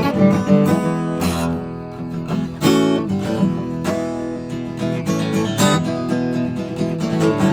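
Acoustic guitar being strummed and picked, with chords and single notes struck one after another.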